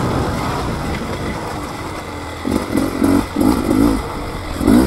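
2024 Beta 300 RR's single-cylinder two-stroke engine running under way on the trail. It eases off about two seconds in, then revs up and down in quick surges.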